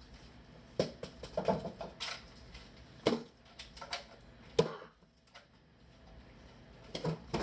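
Scattered light knocks and taps, about seven, coming at irregular intervals.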